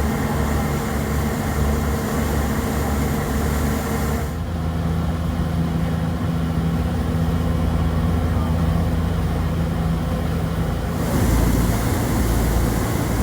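Passenger ferry's engines running with a steady low drone, which shifts in tone about four seconds in and again near the end.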